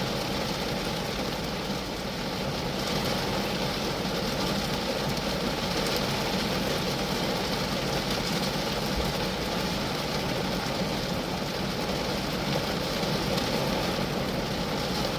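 Steady rain drumming on a small car, a Geo Metro. It holds an even level throughout, growing slightly heavier about three seconds in.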